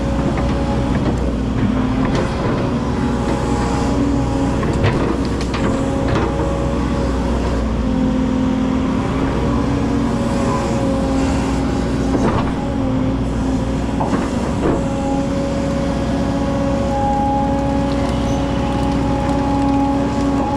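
Hydraulic excavator's diesel engine running steadily, with a few brief knocks along the way.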